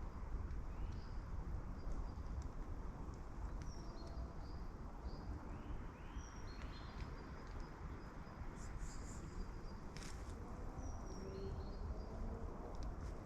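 Woodland birds chirping, short calls repeated every second or so, over a steady low rumble of wind, with a couple of faint clicks about ten seconds in.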